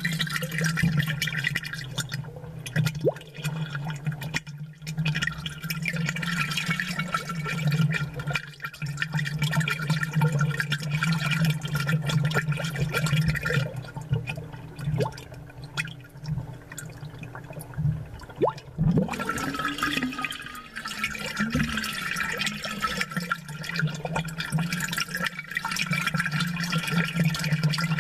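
Close-miked aquarium water bubbling and gurgling from air bubbles, with a steady low hum from the tank's pump running underneath.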